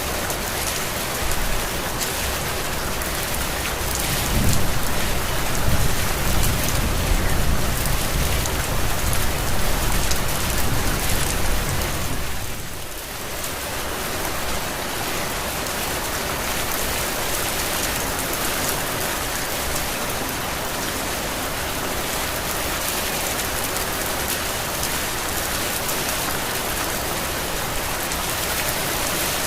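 Heavy rain falling steadily. A low rumble swells under it from about four seconds in and fades out about twelve seconds in.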